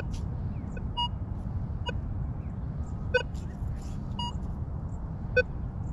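Minelab Vanquish 440 metal detector giving short target beeps at a few different pitches as the coil passes over a buried target in wet sand. There are about seven beeps, irregularly spaced, over a steady low rumble.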